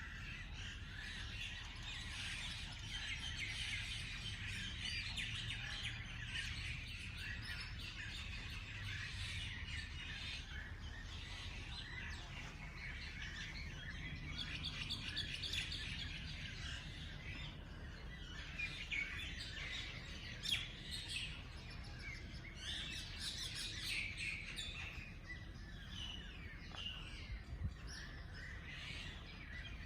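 Several birds chirping and singing at once, short overlapping calls and trills, over a steady low background rumble.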